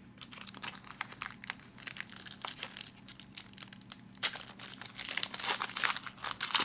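Foil wrapper of a trading card pack crinkling and tearing as the pack is opened, a dense crackle that grows busiest in the second half.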